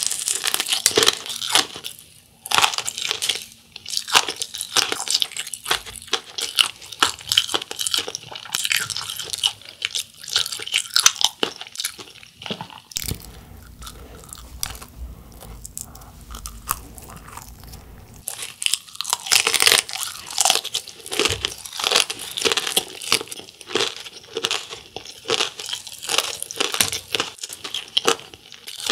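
Close-up crunching and chewing of a fried corn dog coated in crushed instant-ramen snack, with crisp crunches of the crust between softer chewing. For a few seconds midway the chewing goes quieter over a low rumble, then the crunching picks up again.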